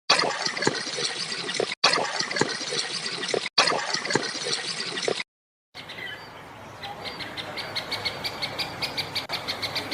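Bird calls in two separate clips. First comes busy chattering full of clicks, briefly cut twice. After a short silence comes a rapid run of short high calls, about five a second.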